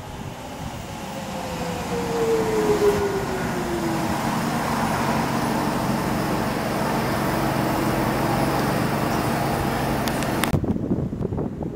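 Docklands Light Railway train running into the station and slowing, its motor whine falling in pitch in the first few seconds under a steady rumble and rush. The rushing noise cuts off abruptly near the end as the train comes to a halt.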